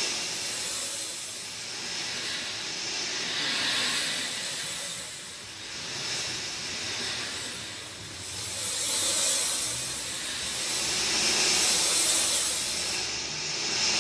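Rain falling steadily, a dense hiss that swells and eases every few seconds.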